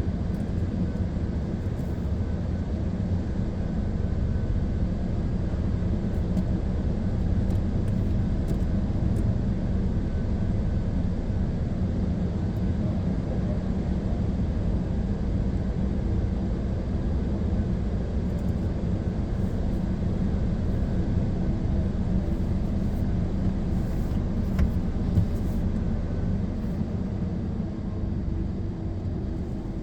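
Automatic car wash machinery running with a steady low rumble.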